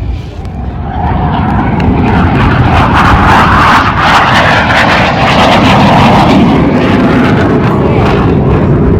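A loud aircraft engine roar from a plane flying overhead. It builds up about a second in and then stays loud and steady.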